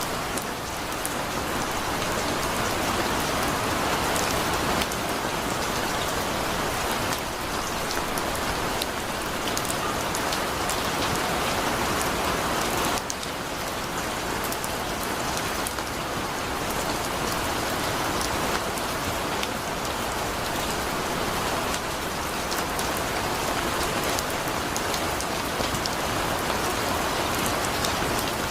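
Heavy rain falling steadily, with scattered crisp drop ticks over the even hiss.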